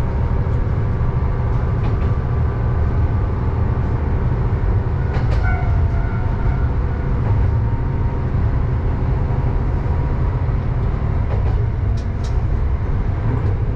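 Hitachinaka Seaside Railway diesel railcar running along the line, heard from inside the car: a steady low engine drone with wheel-and-rail rumble, and a few short sharp clicks about five and twelve seconds in.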